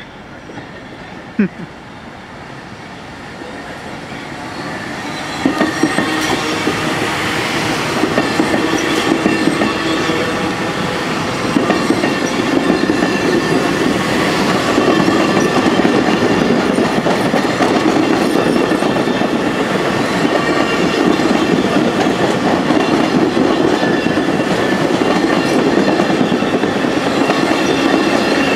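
Long Island Rail Road passenger train approaching and passing close by. It grows louder over the first six seconds, then runs on as a steady rumble with wheels clicking over the rail joints.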